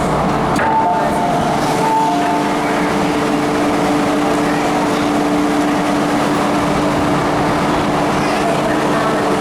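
MTR M-Train (Metro-Cammell EMU) running along the line, heard from inside the carriage: a steady rumble of wheels and running gear with a steady two-pitch motor hum through most of it.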